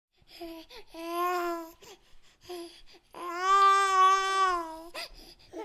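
Baby vocalizing: a few short babbling sounds, then one long, drawn-out cry held at a steady pitch for about two seconds, starting about three seconds in.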